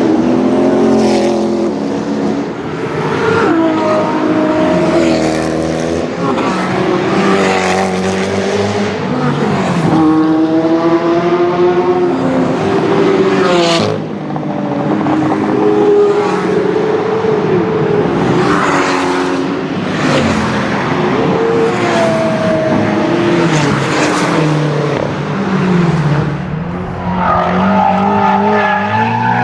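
Sports car engines revving and accelerating in a run of short clips, the pitch climbing with each rev or gear and dropping again, with sudden changes where one car gives way to the next.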